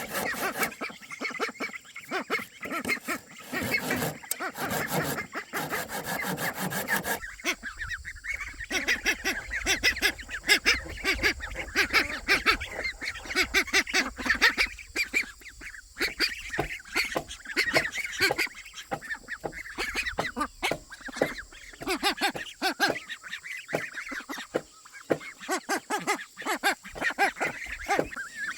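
Wood being sawn by hand with repeated rasping strokes for the first several seconds, then a long run of short, rapid calls from domestic fowl.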